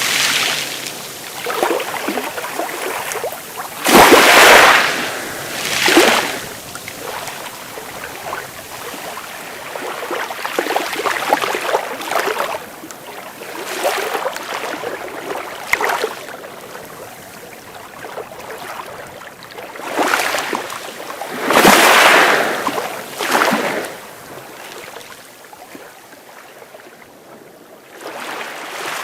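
Sea waves breaking and washing on the shore, with irregular surges every few seconds, the strongest about four seconds in and again a little past twenty seconds.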